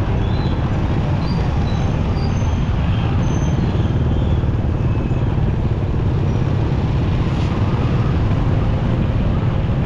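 Motorcycle riding in city traffic: a steady, unbroken engine and road rumble, deep and even, with faint short high tones in the first few seconds.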